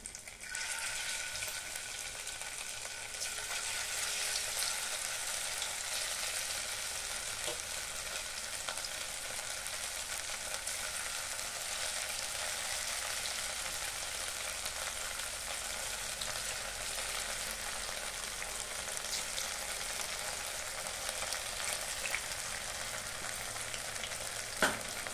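Cornflour-coated paneer cubes frying in hot oil in a kadai: a steady sizzle that starts about half a second in as the first pieces go in, and grows louder a few seconds later as more cubes are added by hand. A single sharp click near the end.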